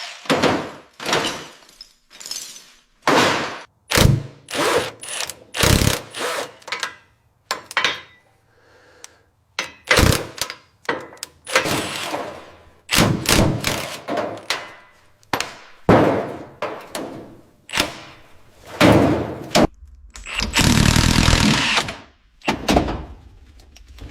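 Workshop tool work: irregular knocks, bangs and short scrapes, with one longer rasping sound a few seconds before the end.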